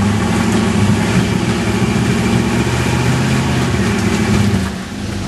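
Toyota 4Runner's engine running loudly and steadily under load as it crawls up rock, easing off briefly near the end.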